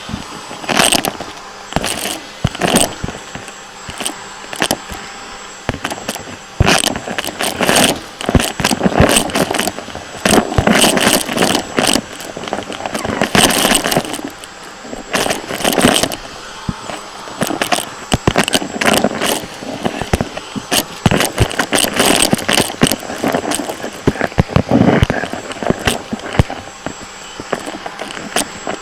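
Vacuum cleaner running while it is pushed rapidly back and forth, its steady motor noise swelling and falling every second or two under many sharp clattering and crackling knocks.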